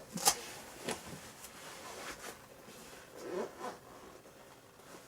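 A leather motorcycle boot being pulled on and fastened: a few short scraping and rustling strokes, the sharpest about a third of a second in.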